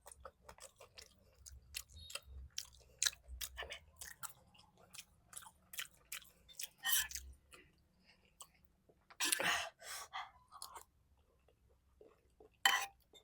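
Close-miked mouth sounds of someone eating kheer (milk rice pudding): wet chewing and smacking in many short clicks, with a longer, louder one about nine and a half seconds in.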